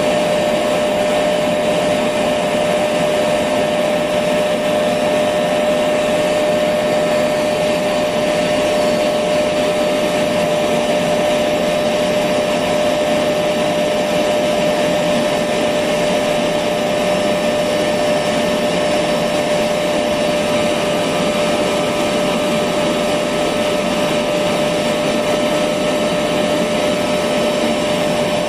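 Electric vacuum cleaner running steadily, a constant whine over even motor and airflow noise.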